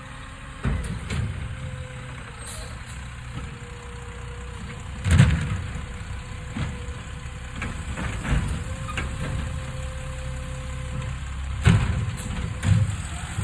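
Garbage truck engine running with a steady low rumble, broken by several loud metallic clunks and bangs, the loudest about five seconds in.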